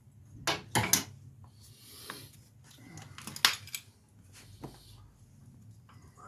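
Metal hand tools clinking and clattering as they are handled, with a few sharp clinks about a second in and the loudest about three and a half seconds in.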